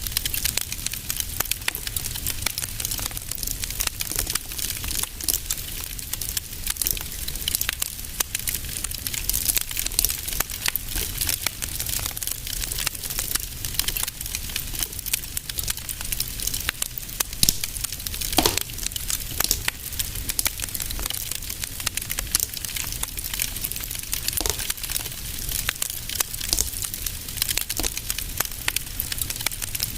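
Fireplace fire crackling steadily: dense small pops and snaps over a low rumble, with a few louder pops, one a little past the middle.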